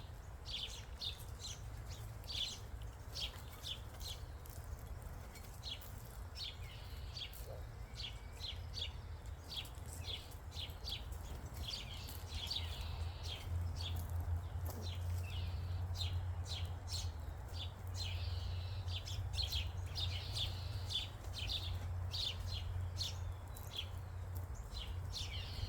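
Small songbirds chirping: many short, high chirps in quick succession. Underneath runs a steady low rumble that gets louder about halfway through.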